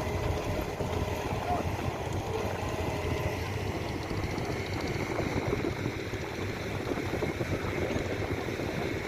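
A motor running steadily under a noisy, rumbling outdoor background, with faint voices.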